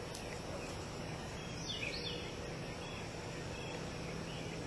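Quiet outdoor ambience with a bird calling about two seconds in: a short run of high notes, each sliding downward.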